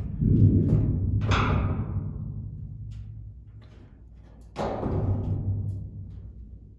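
Sheet-metal cabinet of a top-load washing machine booming as it is handled and set onto its base: two deep, drum-like booms, at the start and about four and a half seconds in, each dying away over a couple of seconds.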